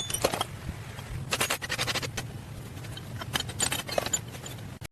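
Irregular bursts of scraping and light clinking, like hand work on hard objects, over a faint low steady hum.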